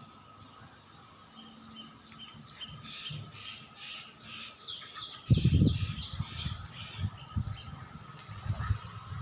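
A bird calling in a fast, even series of high chirps, several a second, growing louder toward the middle. About five seconds in, a sudden low rumble with irregular thumps starts and becomes the loudest sound.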